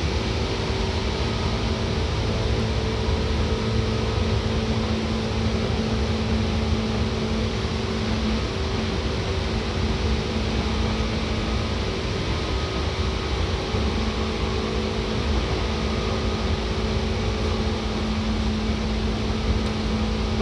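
Seibu 2000 series electric train running at a steady speed, heard from inside the passenger car: a loud, even rumble of wheels and running gear with several constant humming tones over it.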